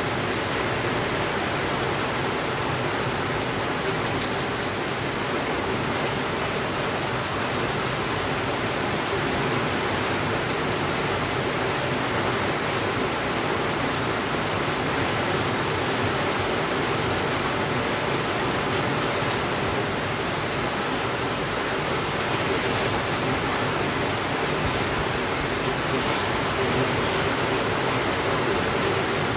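Steady rainfall: an even, unbroken hiss of rain, with a few faint ticks in the first several seconds.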